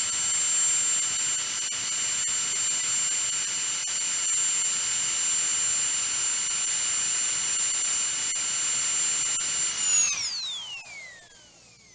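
Dentist's drill running at full speed with a steady, very high-pitched whine, then winding down about ten seconds in, its pitch sliding steadily lower as it spins to a stop.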